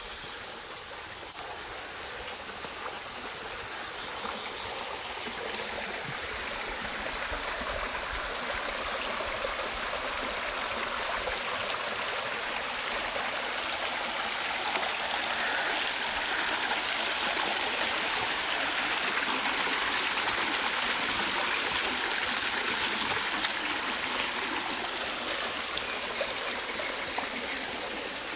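A stream running, a steady rush of water that grows louder over the first half and eases slightly near the end.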